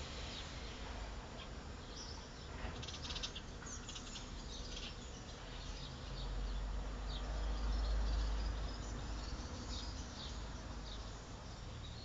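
Small birds chirping in short, high twitters scattered throughout, with a low rumble swelling up midway through.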